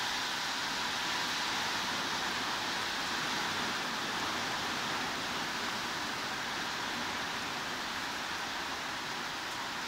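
Heavy rain as a steady, even hiss with no single drops standing out.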